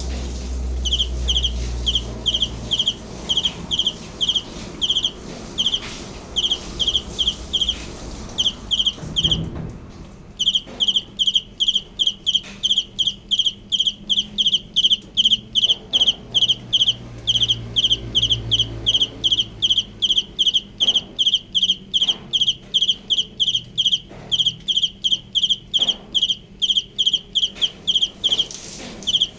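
A cricket chirping: short, high chirps repeated a few times a second. They come in broken runs at first, stop briefly about ten seconds in, then carry on in a steady, even rhythm.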